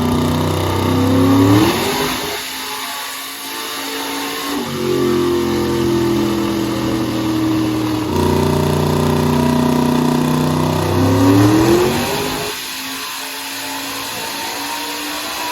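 A 10.3-litre big-block V8 under load on a chassis dyno. Twice its pitch climbs as it revs up, then cuts off suddenly as the throttle closes, and it runs lower and quieter before pulling again.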